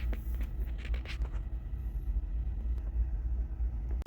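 Steady low rumble of a semi truck's diesel engine running, heard inside the cab, with a few light clicks and taps in the first second and a half.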